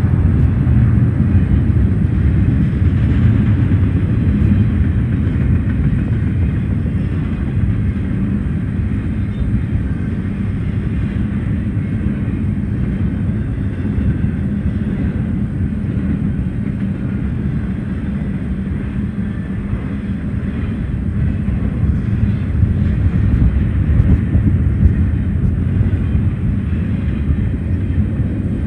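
Double-stack intermodal freight train rolling past: a steady low rumble of steel wheels on rail under the loaded container well cars. It eases a little in the middle and swells again near the end.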